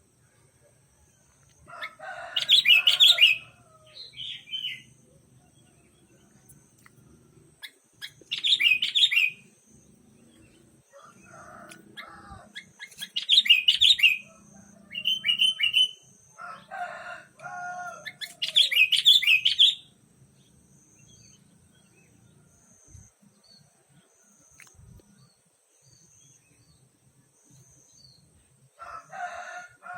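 Sooty-headed bulbul calls: loud bubbly phrases of about a second and a half, repeated every five or six seconds. Faint short high chips from another bird repeat steadily between them.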